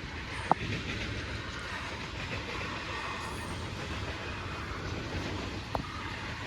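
A freight train rolling past with a steady rumble of wheels on rail. Two brief sharp ringing squeaks from the wheels come about half a second in and near the end.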